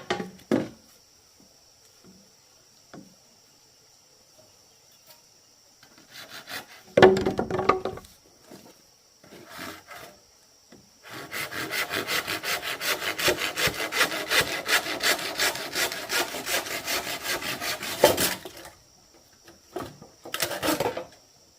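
A saw cutting wood or bamboo: rapid, even back-and-forth strokes that start about halfway in, run for about seven seconds and stop. A single loud knock sounds a few seconds before the sawing.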